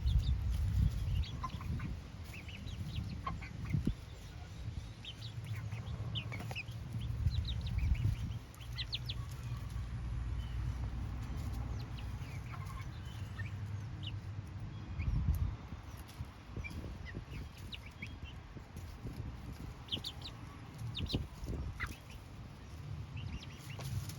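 Chickens clucking, with short, scattered calls over a low, uneven rumble.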